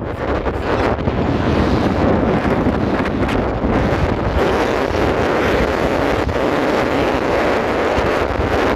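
Strong mountain wind blowing steadily and buffeting the microphone, a dense, loud rush with a low rumble.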